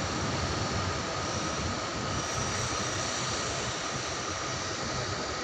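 Indian Railways passenger coaches rolling past at steady speed: an even rolling noise of steel wheels on the rails, with a faint steady high whine over it.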